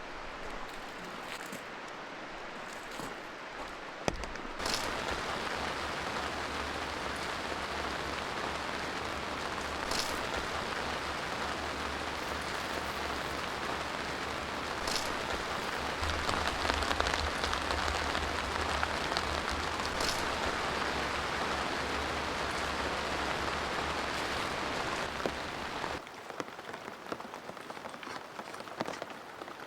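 Rain falling on a surface: lighter with scattered drips at first, then a dense, steady downpour that comes in suddenly about four seconds in with a low rumble underneath, and falls back to lighter rain near the end.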